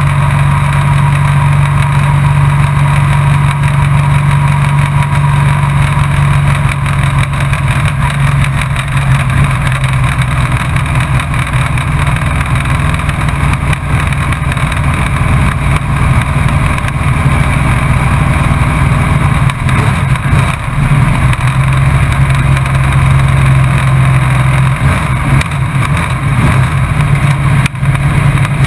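Race truck engine running at a steady pitch, heard from the onboard camera in the cab, with a brief drop in the engine note about twenty seconds in before it steadies again.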